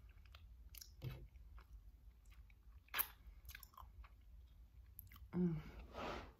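Close-up chewing and wet mouth sounds of a person eating a buffalo chicken slider, with scattered soft clicks and smacks and one sharper click about halfway. A brief closed-mouth hum about five seconds in, followed by a breath.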